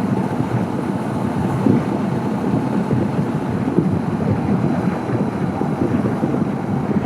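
Steady wind rush on the microphone with road noise while riding a 2014 Honda CB500X motorcycle.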